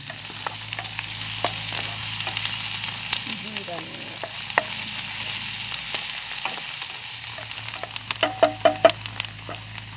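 Chopped onion sizzling in hot oil in a small pan, stirred with a wooden spatula that scrapes and clicks against the pan, with a quick run of taps near the end.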